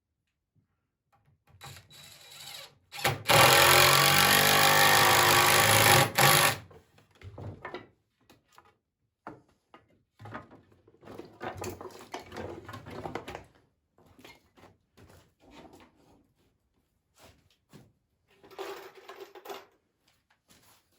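Power drill driving a screw into poplar for about three seconds, followed by scattered knocks and handling of the wood, and a second short run of the drill near the end.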